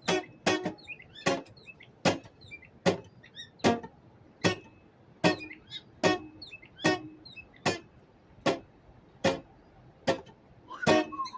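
Acoustic guitar strummed in a slow, steady rhythm, about one strum every 0.8 seconds. A small bird chirps briefly between the strums.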